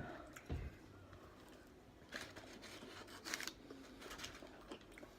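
Faint rustling and handling noises at the table: a soft knock just after the start, then two short rustles about two and three and a half seconds in.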